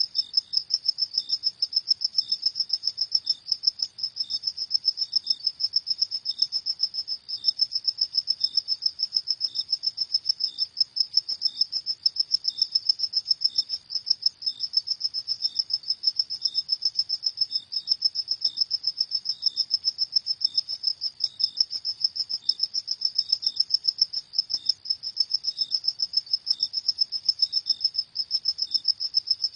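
Crickets chirping in a steady, rapid, high-pitched trill with only brief gaps, with a fainter, lower chirp repeating about once a second beneath it.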